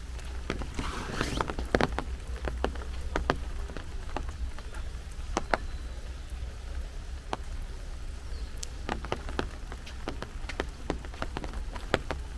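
Rain falling, an even hiss with scattered sharp drop strikes ticking close by at irregular moments. A steady low rumble runs underneath.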